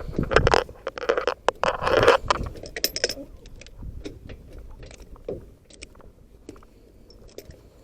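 Metal tools scraping and clicking against metal while a truck wheel's lug nuts are being tightened: a few loud rough scrapes in the first couple of seconds, then scattered light clicks.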